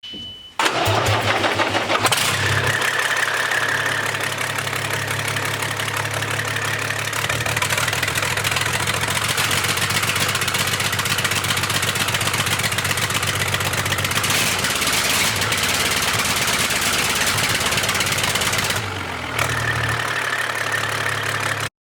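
An engine is started with its exhaust manifold removed. It catches about half a second in and runs loudly and raggedly straight out of the open exhaust ports, the way it is run to find which cylinders are misfiring. Its note drops briefly a few seconds before the end.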